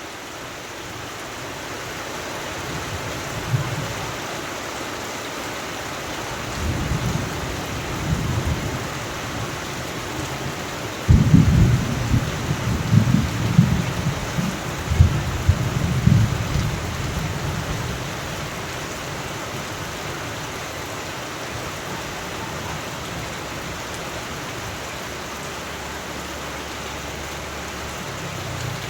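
Steady rain with rolling thunder. Low rumbles build a few seconds in, then a loud peal breaks in suddenly about eleven seconds in and rumbles for about five seconds before fading back to the rain.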